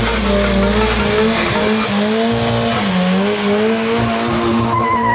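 Car tires squealing over a revving engine, as in a burnout or drift, with a higher wavering squeal joining near the end.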